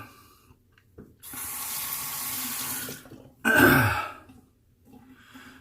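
Bathroom sink tap running steadily for about two seconds, then turned off. A short, louder sound follows about half a second later.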